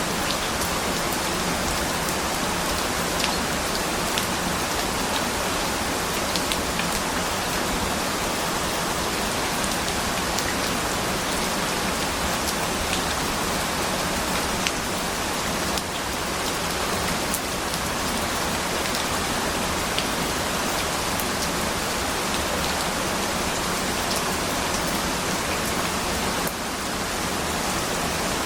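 Steady, heavy rainfall: a dense, even hiss of rain with scattered individual drops ticking through it.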